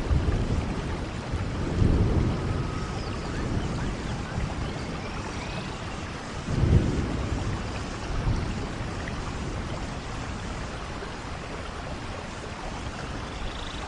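Steady rain on rainforest foliage with rolling thunder: a low rumble about two seconds in and a louder rumble near the middle, dying away toward the end.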